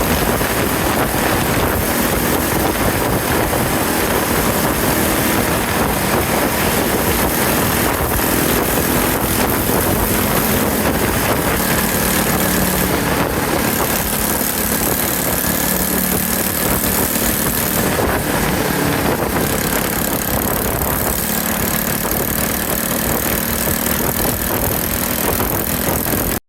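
Yamaha TW200 single-cylinder motorcycle being ridden: a loud, steady rush of wind over the microphone, with the engine running underneath. It cuts off abruptly at the end.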